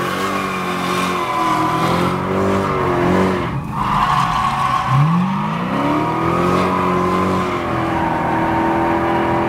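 Dodge Charger Hellcat's supercharged 6.2-litre V8 heard from inside the cabin, pulling hard under acceleration. About three and a half seconds in the revs drop back briefly, then climb again, with a steady tire squeal above the engine.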